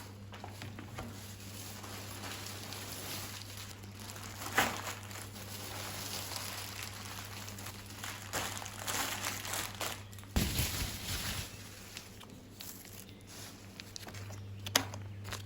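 Household handling noises: crinkling and rustling, with a sharp tap about four and a half seconds in, a dull thump about ten seconds in and another sharp tap near the end, over a faint steady low hum.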